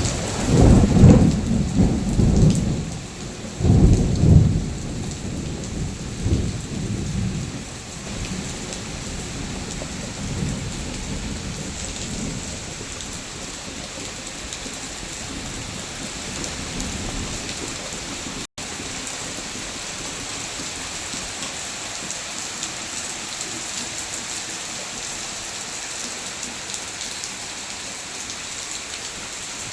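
Steady rain falling, with thunder rumbling twice in the first few seconds and then in weaker rolls that die away, leaving the rain hiss alone. The sound cuts out for an instant about two-thirds of the way through.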